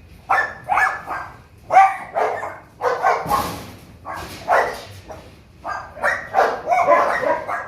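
Puppies barking over and over in short, high-pitched yaps, one or two a second, with a brief rushing noise about three seconds in.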